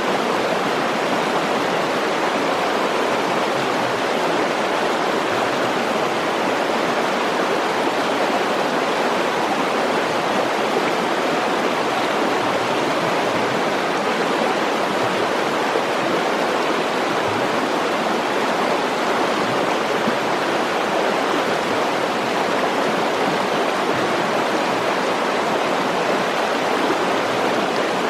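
Mountain stream rushing over rocks, a steady even roar of flowing water.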